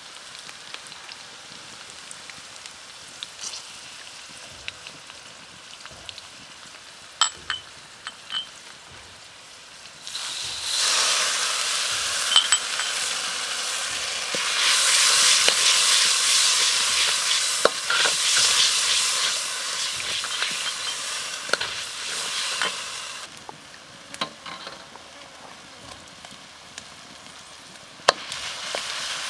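Chopped garlic and chilies sizzling as they fry in oil in a carbon-steel wok, stirred with a metal ladle, with a few sharp clicks. The sizzle turns much louder about ten seconds in, falls back about two-thirds of the way through, and picks up again near the end.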